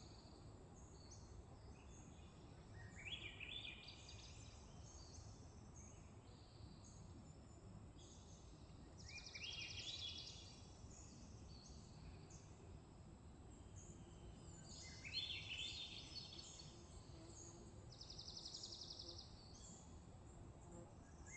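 Swainson's thrush singing its upward-spiralling, flute-like song, three phrases each rising in pitch, about six seconds apart. Other birds chirp faintly behind it, with a buzzy trill twice.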